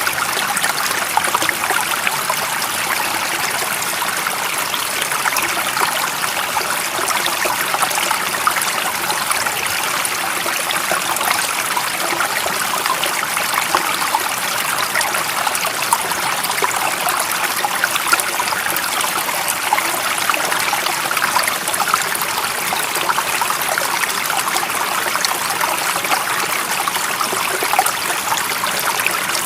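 Stream water running and trickling steadily, a continuous hiss of splashing with fine crackle throughout.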